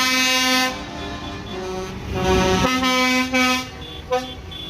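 Vehicle horns from passing convoy tractors and trucks, blowing long steady blasts: one at the start, another about three seconds in, and a short toot near the end, over the rumble of the vehicles' engines.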